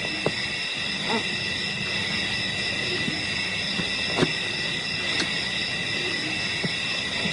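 Steady chorus of night insects, several shrill tones held without a break, with a few short sharp animal calls or clicks scattered through it.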